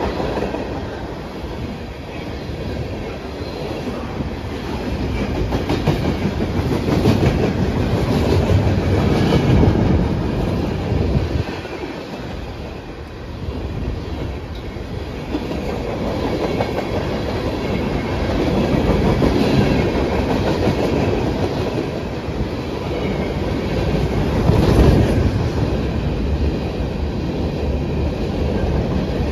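Train rolling past, wheels clicking over the rail joints in a steady rumble that dips briefly about twelve seconds in.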